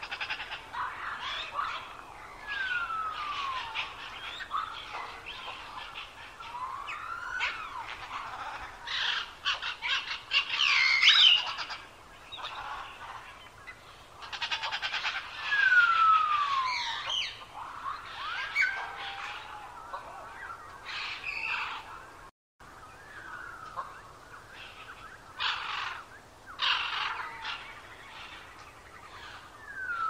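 Several birds singing: clear whistles sliding down in pitch, repeated every few seconds, mixed with faster chirps and trills. The sound drops out for a split second about 22 seconds in.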